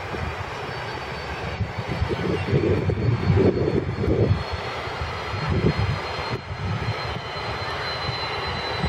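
Jet airliner engine noise: a broad, uneven rumble with a thin steady high whine, swelling for a couple of seconds about two seconds in.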